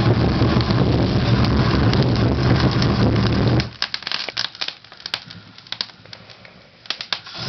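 A loud, steady noise with a low hum cuts off sharply about three and a half seconds in. What remains is a wood fire in a fireplace crackling and popping, with scattered sharp snaps.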